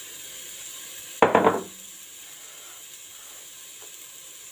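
Onions and spinach sizzling softly in a pot over a low flame, a steady faint hiss. A brief spoken syllable about a second in.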